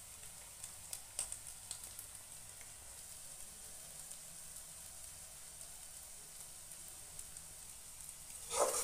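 Chopped onion and garlic with masala frying in oil in an aluminium kadhai, a quiet steady sizzle with a few crackles as the onions soften. Near the end a spatula starts stirring and scraping the pan, much louder.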